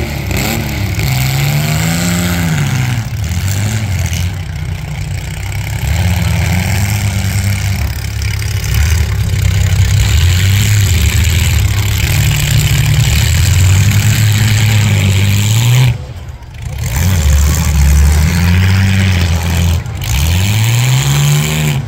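Demolition-derby car engines running and revving, their pitch rising and falling in several revs, over a loud steady din. The sound drops away briefly about three-quarters of the way through.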